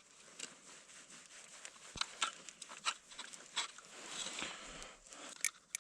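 Faint scattered clicks, taps and rustles of hands handling small ice-fishing gear while baiting a tip-up.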